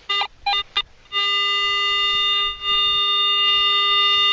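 Garrett AT-series metal detector's audio: a quick run of short beeps, then about a second in a steady held tone, which dips once briefly. This is the detector pinpointing a target signal that could be a coin.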